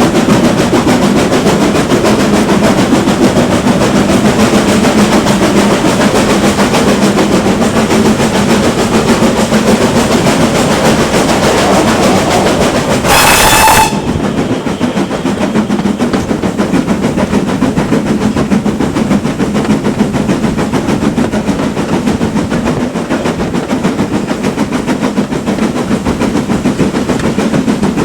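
Steam train running on the rails, a steady loud rumble with wheel clatter. About halfway through comes one short, loud blast on the locomotive's steam whistle, after which the running noise is a little quieter and duller.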